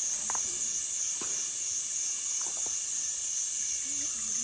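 A steady, high-pitched insect chorus drones through the forest. A few short, sharp chirps or clicks come over it about a third of a second, a second, and two and a half seconds in.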